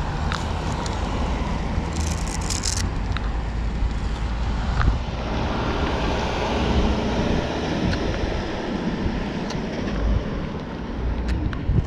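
Wind rushing over the microphone and road noise while riding a bicycle, a steady rumble with scattered light clicks.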